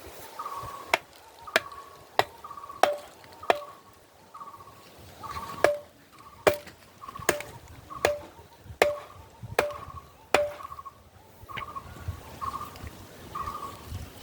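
A hand tool chopping with steady, evenly spaced strokes, about one every three-quarters of a second, pausing briefly around four seconds in before resuming.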